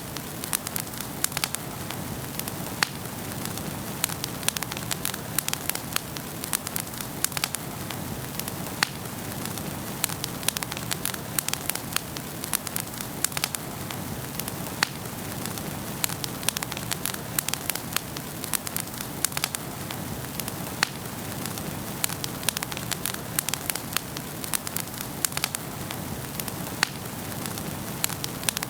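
Wood fire burning in a fireplace: a steady low hiss and rumble of the flames, with frequent sharp, irregular crackles and pops from the burning wood.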